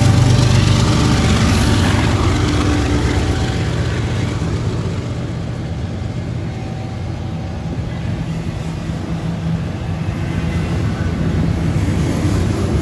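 BNSF diesel-electric freight locomotives pulling away, their engine drone strongest at first and fading over the first few seconds. Double-stack container well cars roll past close by with a steady rumble of wheels on rail.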